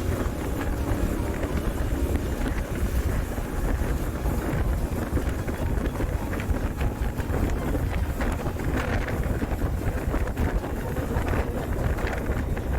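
Wind buffeting the microphone over a Honda Africa Twin DCT motorcycle being ridden, its parallel-twin engine running underneath.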